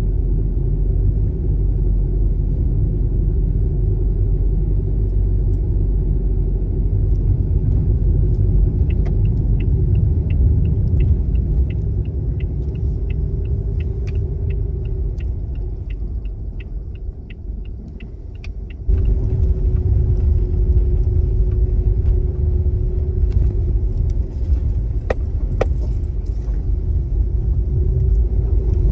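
Car driving, heard from inside the cabin: a steady low road-and-engine rumble with a faint hum. In the middle the rumble eases and a regular ticking of about two a second sounds for some ten seconds, then the rumble returns at full level.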